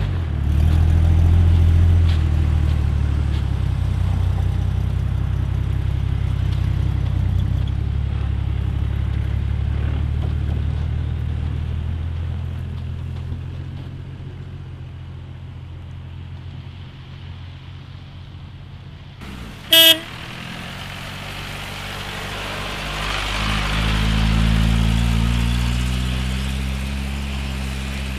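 Off-road vehicle engine running with a low hum that fades away through the middle. About twenty seconds in there is a short, loud horn toot. A second engine then rises in pitch and grows louder near the end.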